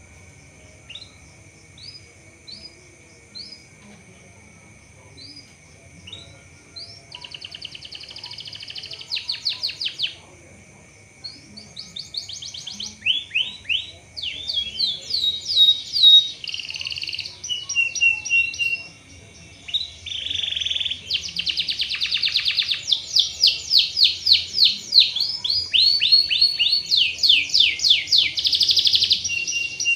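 Domestic canary singing. At first there are single sharp, downward-sliding chirps about once a second; then bursts of fast trills, building to continuous rapid rolling song about two-thirds of the way in.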